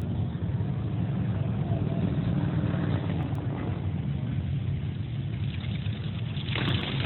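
A car engine idling with a steady low rumble. Near the end there is a short burst of hiss, which could be a blip of the throttle or a gust on the microphone.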